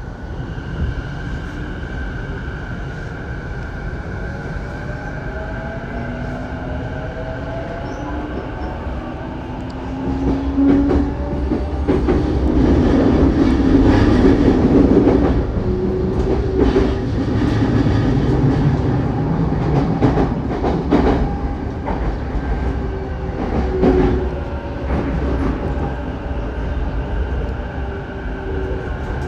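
Electric commuter train on the JR Saikyō Line heard from inside the car while running, with a steady rumble and the wheels clicking over rail joints. A motor whine glides in pitch. The noise grows louder from about ten seconds in for several seconds, then eases.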